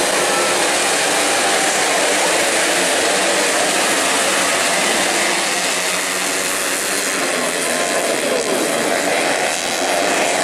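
Racing dirt bike engines running hard, their pitch rising and falling as they rev and pass.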